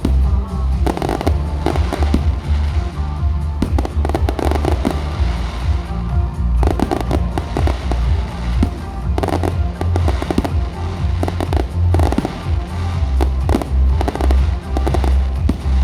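Fireworks display: shells bursting with repeated bangs and crackling in clusters, over music with a heavy bass line playing throughout.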